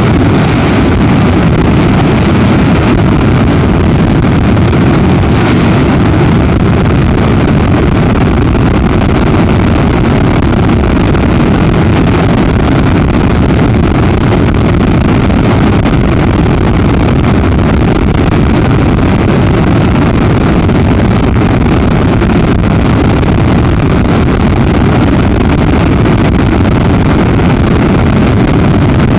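Very strong storm wind buffeting the nest camera's microphone: a loud, steady low rush of noise with no breaks.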